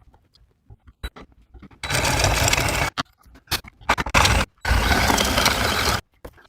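A power tool run in short bursts: on for about a second, a couple of brief blips, then on again for over a second.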